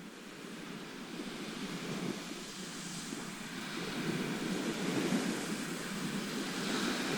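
Sea surf: a steady wash of waves, growing gradually louder.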